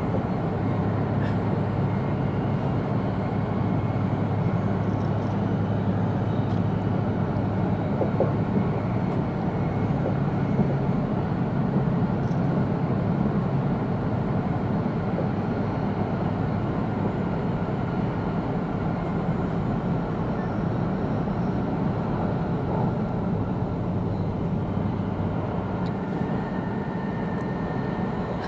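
Steady running noise heard inside an E2-series Shinkansen passenger car: an even low rumble of the train in motion, with a steady low hum underneath.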